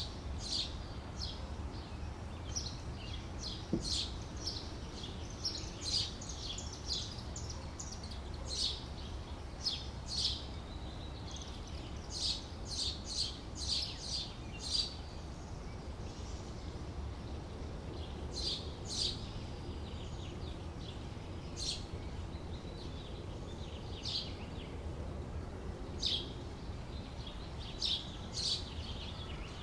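Small birds chirping, with short high calls coming in irregular clusters, over a steady low background rumble.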